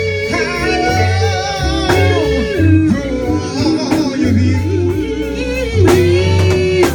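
Gospel song performed live: a singer's voice bending and holding long sung notes over guitar and low bass notes.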